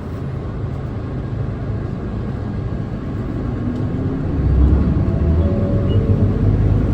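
Nissan Diesel Space Runner city bus's diesel engine heard from inside the cabin as the bus pulls away from a stop. A steady low rumble gets louder about four seconds in, with engine tones rising in pitch as it accelerates.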